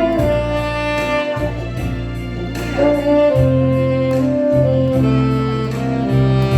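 Solo saxophone playing a slow melody of held notes over a backing track with bass and a steady beat.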